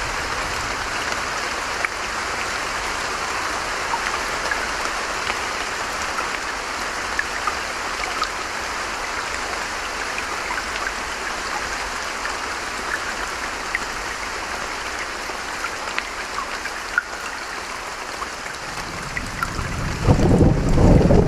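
Steady rush of running brook water with scattered small drips and splashes. Near the end a deep rumble of thunder builds and becomes the loudest sound.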